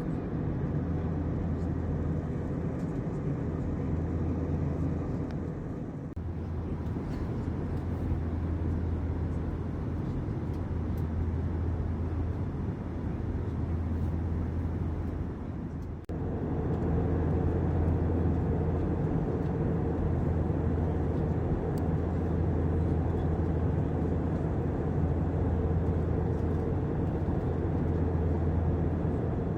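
Airbus A321 cabin noise in flight: a steady low drone of engines and airflow. It breaks briefly about six seconds in and again about halfway, after which it is a little louder.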